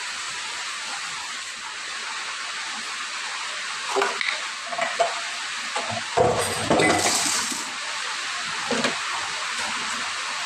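Dishes and glasses clinking and knocking together as they are handled, in scattered clusters about four, six and nine seconds in, over a steady hiss.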